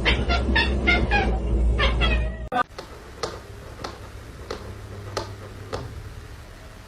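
A cat meowing in a quick run of about six short calls, which stops abruptly about two and a half seconds in. After that only a few faint clicks are heard.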